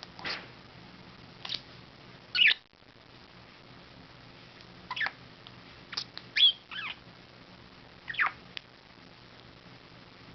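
Budgerigar giving short, scattered chirps and squawks, about nine in all, the loudest about two and a half seconds in and again a little after six seconds.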